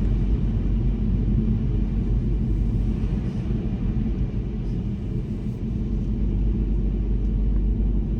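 Car driving at steady speed: a constant low rumble of tyre and road noise with the engine underneath.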